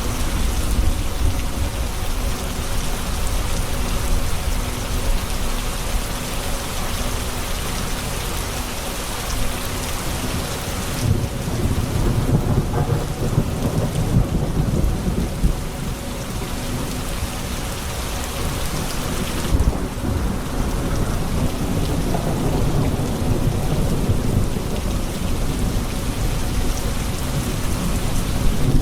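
Steady heavy rain with thunder rumbling low underneath, the rumble growing heavier about ten seconds in.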